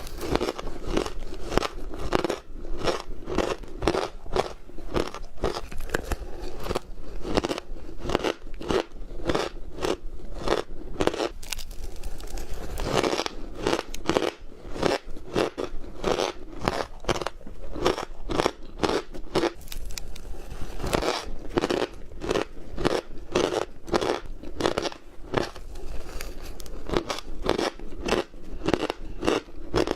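Ice being chewed close to the microphone: a steady run of sharp crunches and squeaks, about two to three bites a second, with no pauses.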